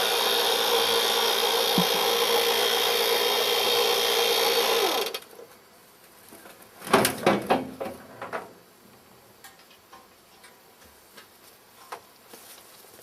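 Electric winch motor running with a steady whir, then stopping sharply about five seconds in as it finishes pulling the log hive upright. A few knocks and rattles follow a couple of seconds later.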